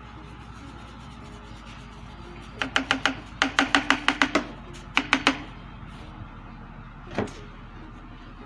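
Rapid sharp taps with a short ring, about six a second for under two seconds, then three more and one last tap: a hollow container or scoop knocked against the mixing bowl as the powder is emptied in.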